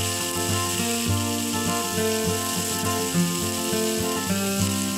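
Sliced beef and onions sizzling in a frying pan, a steady hiss, with background music playing over it.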